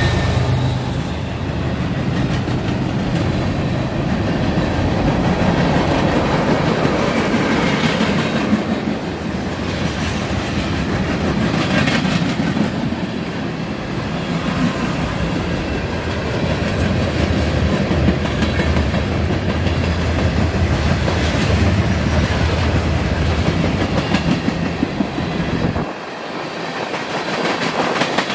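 A train rolling past on the rails, its cars going by in a steady, loud noise of wheels on track. The deepest part of the sound drops away near the end.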